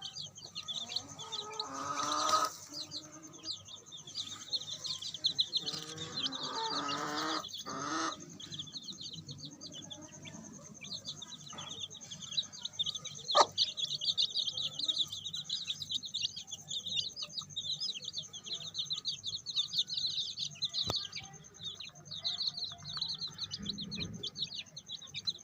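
Week-old chicks peeping in a continuous high, rapid chatter. Twice in the first third comes a longer, lower chicken call.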